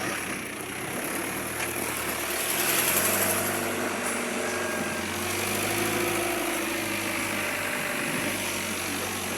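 An engine running steadily, its pitch shifting slightly about three seconds in.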